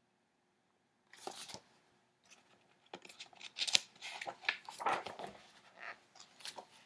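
Book being handled: paper pages and a stiff cover rustling and crinkling in irregular bursts with sharp crackles, starting about a second in and busiest in the second half.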